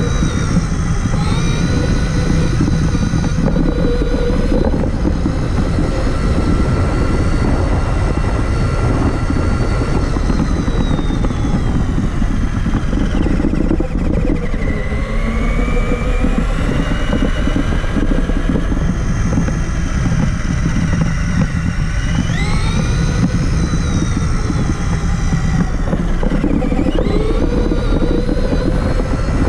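Traxxas Summit 1/10 electric RC truck's motor and drivetrain whining, the pitch rising and falling again and again with the throttle, climbing sharply about three quarters of the way through, over a loud steady rumble, heard from a camera mounted on the truck.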